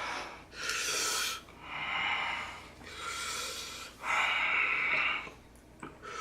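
A person breathing hard in and out through the mouth, about five hissing breaths in a row, to cool a mouth burning from spicy noodles.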